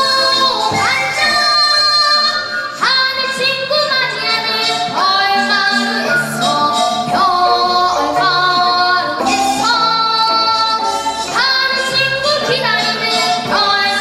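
Children's vocal ensemble singing a gugak-style children's song, held melodic notes over instrumental accompaniment.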